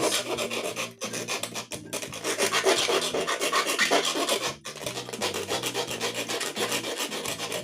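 Harsh, gritty electronic noise with a fast flutter, over low held notes that step in pitch: the output of a PT2399-based noise delay circuit. It briefly drops out about a second in and again about four and a half seconds in.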